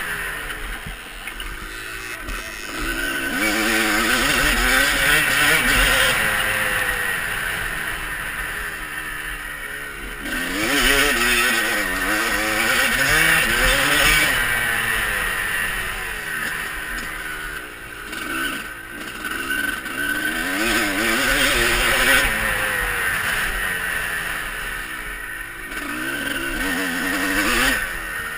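Motocross bike engine revving up and falling back again and again, with a rushing hiss underneath.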